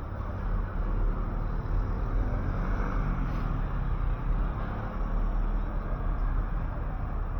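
City street traffic over a steady low rumble, with a passing vehicle swelling loudest about three seconds in.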